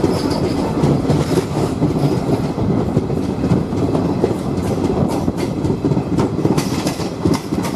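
Passenger train running, heard from on board: a steady rumble of the coach with wheels clicking and knocking over the rail joints.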